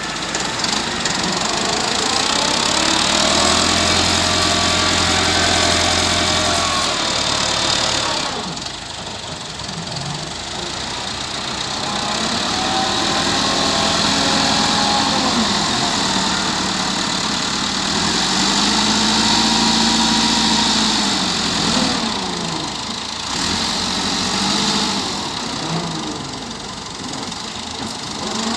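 Massey Ferguson 385 tractor's diesel engine working under the load of a front blade, its revs swelling up and dropping back several times.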